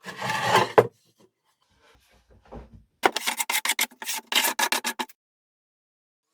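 A hand tool scraping and rubbing on wood: one short scrape, then about two seconds of quick back-and-forth strokes, roughly six or seven a second, that stop abruptly.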